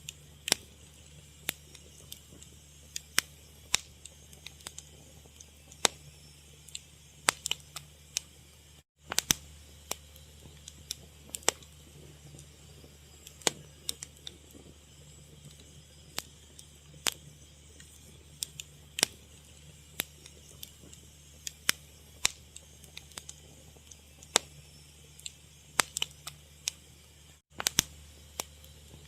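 Wood fire crackling: irregular sharp pops and snaps, several a second at times, over a low steady hum.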